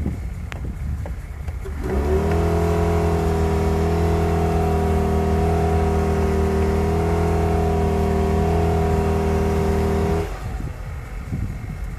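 A 2010 Jeep Patriot's four-cylinder engine revs up about two seconds in and is held at steady high revs for about eight seconds while the wheels spin in hard-packed snow. Then it drops off suddenly.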